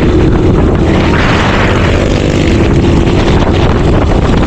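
A vehicle's engine running steadily while on the move, with heavy wind buffeting the microphone.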